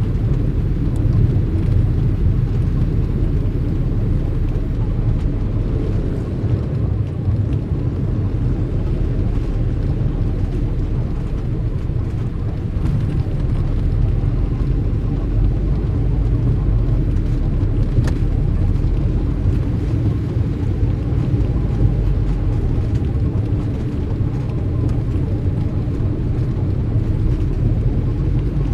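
Steady low rumble of car traffic, even in level throughout.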